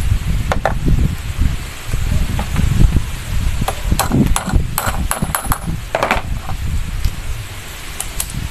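Metal hand tools and pump parts knocking and clinking during work on a diesel engine's PT fuel pump: a couple of knocks about half a second in, a quick run of clinks a few seconds later, and another clank soon after, over a low rumbling background.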